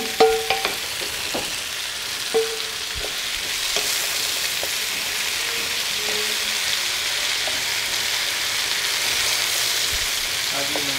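Sliced zucchini frying and sizzling in a pan as it is stirred with a wooden spoon. There is a steady hiss, with a few light knocks and scrapes of the spoon against the pan in the first few seconds.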